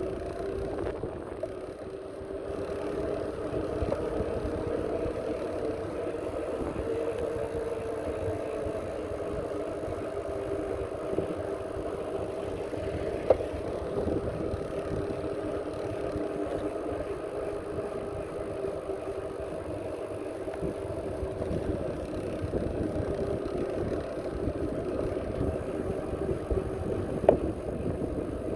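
Bicycle in motion: a steady hum whose pitch drifts slowly up and down, over low wind rumble on the microphone, with two sharp clicks about halfway through and near the end.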